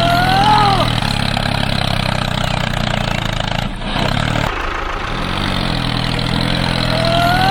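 Tractor engine idling steadily, cutting out briefly about halfway through and then running again. A short squeal rises and falls near the start and again near the end.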